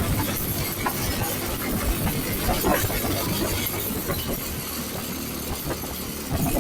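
Motorcycle on the move: the engine runs under rough wind noise on the microphone, with irregular rattles and knocks.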